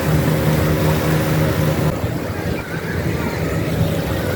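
Motorboat engine running, with rushing wind and water noise. Its steady engine note gives way to rougher noise about halfway through.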